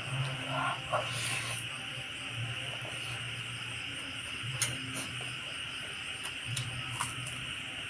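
A person eating: intermittent chewing with a few sharp mouth clicks and smacks, over a steady high hiss.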